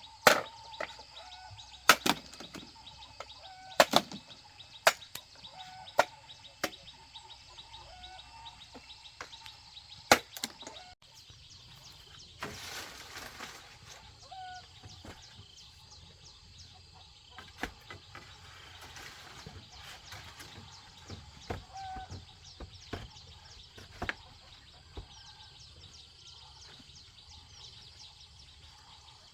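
Blade chopping into wood, sharp single blows about every one to two seconds, for the first third. Then the blows stop and forest ambience remains: a steady high insect drone, bird chirps and a brief rustle.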